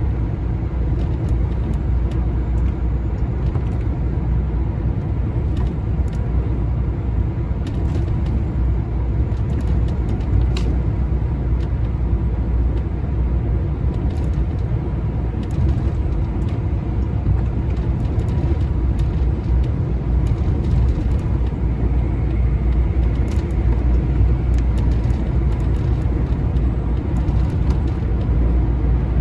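Steady low drone of a lorry's diesel engine and tyre noise heard inside the cab at motorway cruising speed, with scattered light clicks.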